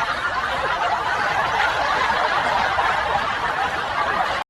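A group of people laughing together, a dense wash of laughter that cuts off abruptly near the end.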